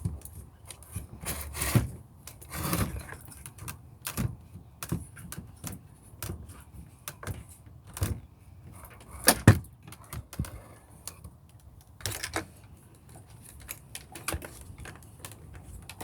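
Hard plastic parts of a Shark vacuum being handled: irregular clicks, taps and light rattles, with a few louder knocks, the loudest about nine seconds in.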